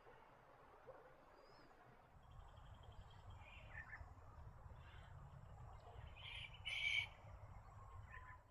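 Faint bird calls over a low background rumble: a few short calls, the loudest two close together about six and a half seconds in. The sound cuts off suddenly at the end.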